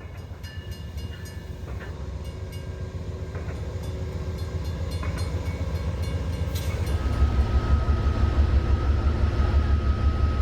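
Train approaching and passing, growing steadily louder, with a heavy low rumble and scattered clicks; a thin steady whine joins about seven seconds in.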